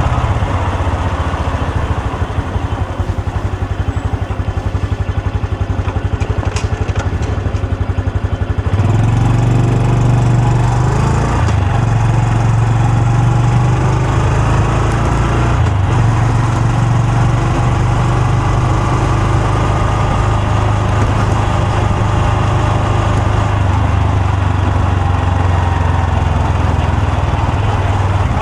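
Honda Super Cub C125's single-cylinder four-stroke engine and exhaust, running at a low, uneven pulse for the first nine seconds or so, then pulling away more strongly with the pitch climbing and two short breaks in the note as it changes gear.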